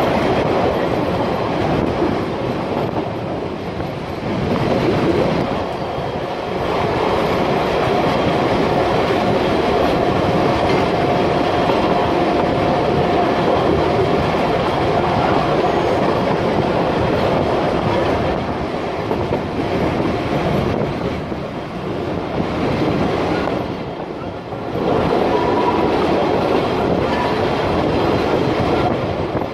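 Metre-gauge electric train running along the track, heard from an open carriage window: a steady loud rumble of wheels on rail with some clatter, and a faint held whine for several seconds in the middle.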